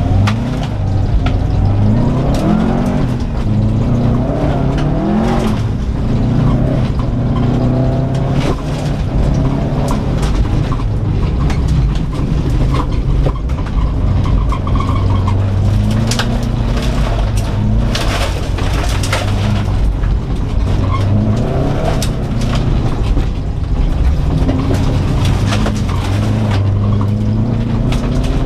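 2004 Subaru Impreza WRX STI's turbocharged 2.5-litre flat-four, heard from inside the cabin, revving up and falling back over and over as the car is driven hard on dirt. Dirt and stones clatter against the body throughout.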